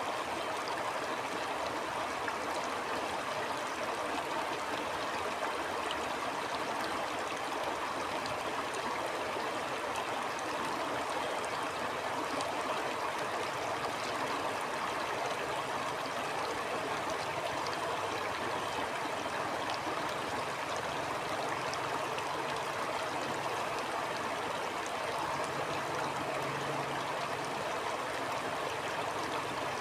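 Stream water flowing and gurgling over rocks: a steady rushing wash with small splashes and trickles.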